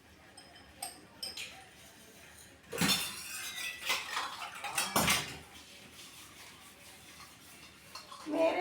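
Dishes and utensils clinking a few times, then a couple of seconds of louder clattering around the middle.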